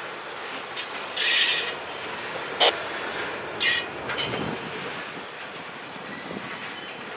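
Freight train flatcars loaded with rail rolling past, their steel wheels squealing in several short bursts, the loudest about a second and a half in, with a sharp knock, then settling into an even rolling rumble.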